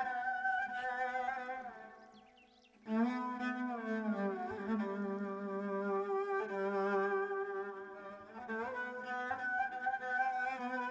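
A bowed string instrument playing a slow Turkish folk melody in long held notes. One phrase fades out about two seconds in, the next begins about a second later and steps down in pitch, and a third starts near the end.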